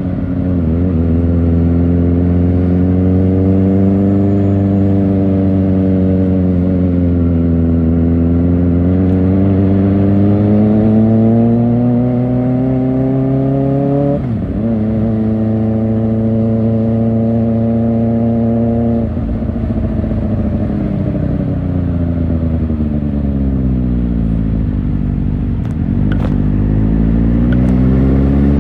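Kawasaki Ninja ZX-4R inline-four engine through an Akrapovic exhaust, riding on the road: the engine pitch rises and falls with the throttle. It climbs steadily through a gear and drops sharply at an upshift about halfway in. It then holds steady, falls away as the bike slows, and rises again near the end.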